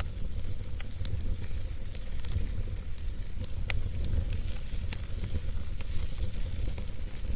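Wood fire burning in a fireplace: a steady low rumble of flames with a soft hiss, and irregular sharp crackles and pops from the burning logs, a few louder ones about four seconds in.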